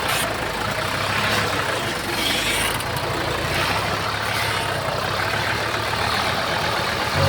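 Heavy earthmoving machine's diesel engine running steadily, a low engine hum under a broad mechanical noise.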